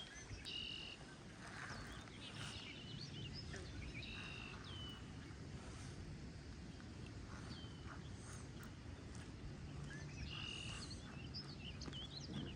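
Birds chirping: short high calls that repeat every second or so, some ending in a quick downward slur, over a steady low rumble of wind.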